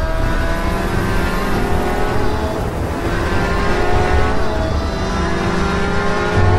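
A fast car's engine running hard during a high-speed chase, its note sliding slowly downward and picking up higher again about three seconds in and again near five seconds.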